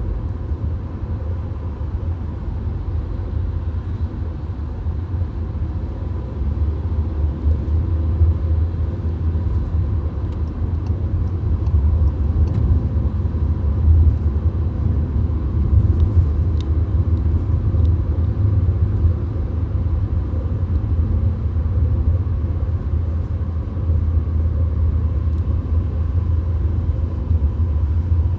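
Road noise inside a VW Golf's cabin at highway speed: a steady low rumble of tyres and engine, with a few faint ticks around the middle.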